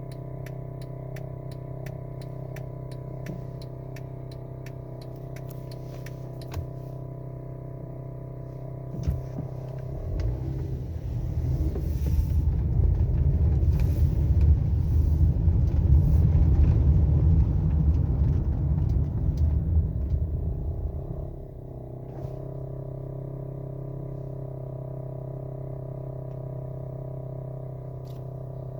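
2011 Honda Odyssey's V6 engine idling steadily, then from about ten seconds in a much louder rough, rattling rumble for about eleven seconds before it settles back to a steady idle. The rattle comes from a noisy aftermarket active engine mount.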